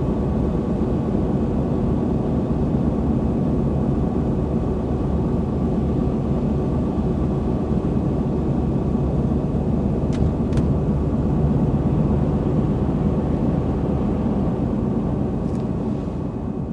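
Truck running steadily with a low engine and road drone, as heard while driving. There are two faint clicks about ten seconds in.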